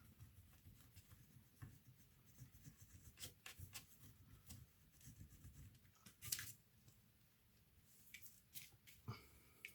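Faint clicks and light scraping of small laptop parts being handled during disassembly, with a louder scrape about six seconds in and a sharper click near the end.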